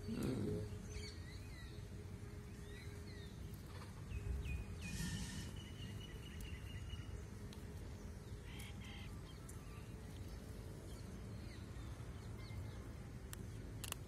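Scattered short bird chirps over steady low outdoor background noise, with a brief noisy burst about five seconds in.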